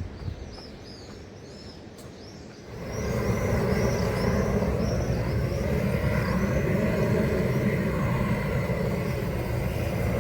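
Small birds chirping over and over; about three seconds in, a loud steady rumbling noise starts and carries on under the chirps.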